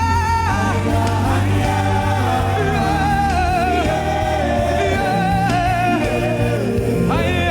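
Gospel worship song: voices singing long, wavering held notes together over a steady bass line.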